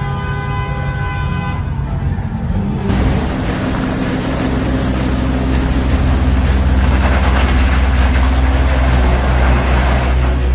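A steady, many-toned sound, like a horn, holds for the first two seconds. From about three seconds in, a loud rumble of a large vehicle's engine and road noise takes over.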